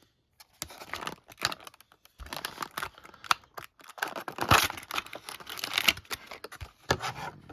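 Crinkling and irregular clicking of plastic packaging around a diecast model car being handled and opened, with a louder crackle about halfway through.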